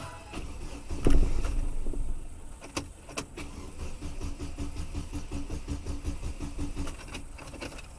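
Car engine starting about a second in and settling to a steady idle, with keys jangling and a couple of sharp clicks.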